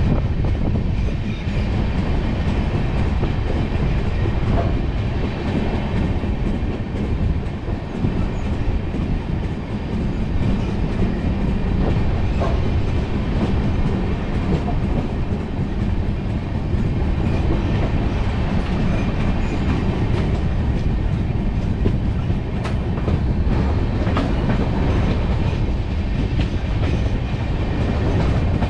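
Passenger train running on the rails, heard from an open coach door: a steady low rumble of wheels on track, with occasional clicks as the wheels pass over rail joints.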